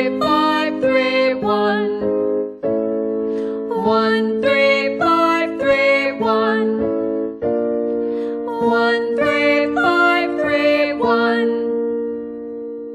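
Keyboard piano accompaniment for a vocal warm-up: quick runs of notes going up and down over held chords, in three phrases, each on a new chord, ending on a long held chord.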